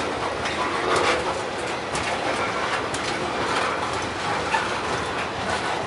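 Freight train cars rolling past: a steady rumble of steel wheels on the rails, with a click about once a second as the wheels cross the rail joints.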